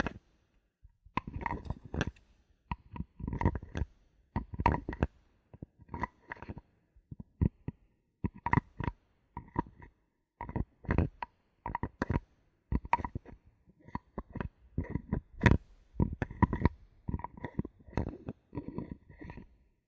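Bottle caps being handled close to the microphone: an irregular run of short scrapes, clicks and taps, several a second with brief pauses. Many of them carry a short ringing tone.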